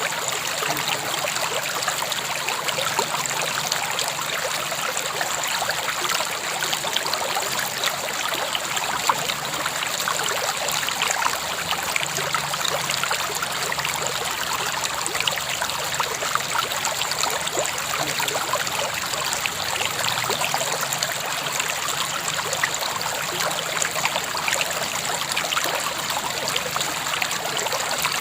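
A river flowing steadily, its water splashing and bubbling evenly over rocks.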